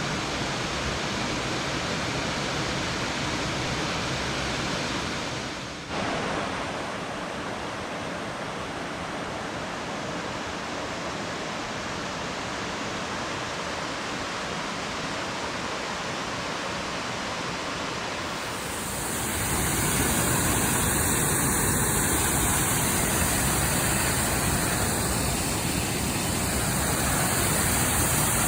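Steady rush of falling water from a waterfall, broken off suddenly about six seconds in and coming back louder and hissier from about nineteen seconds.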